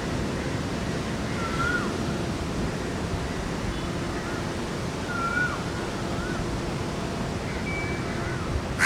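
Heavy rain falling steadily, with a few short bird chirps over it and a crow starting to caw at the very end.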